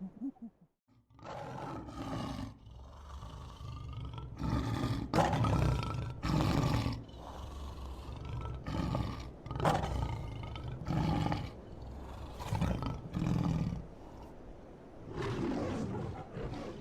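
Big cat roaring: a run of repeated deep roars and grunts, starting about a second in, with longer calls in the middle and shorter ones about a second apart towards the end.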